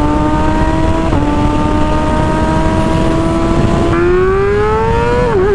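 Kawasaki ZX-6R inline-four sport-bike engine through an M4 GP exhaust, running at high revs under acceleration, its pitch climbing slowly and then faster. The pitch dips briefly about a second in and again near the end.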